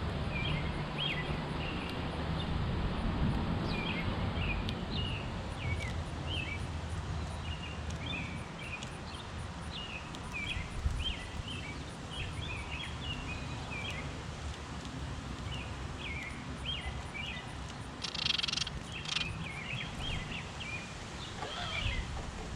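Small songbirds chirping over and over in short, quick notes, with a louder burst of calls about three-quarters of the way through. A low background rumble sits under them, strongest at the start.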